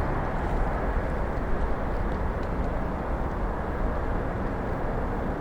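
Four-engine Boeing 747-400 freighter's jet engines rumbling steadily, slowly fading as the aircraft moves away.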